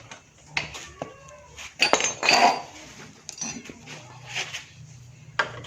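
Metal clinks and knocks of hand tools and small engine parts during the dismantling of a motorcycle's magneto cover, with a louder scraping rattle about two seconds in.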